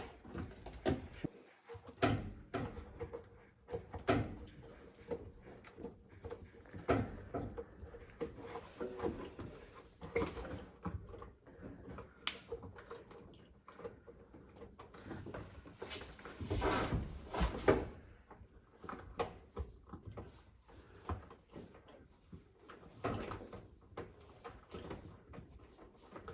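Hands-on work on a front-loading washing machine's door-seal area: irregular clicks, knocks and small clatters, with a louder, longer scraping or rubbing stretch about two-thirds of the way through.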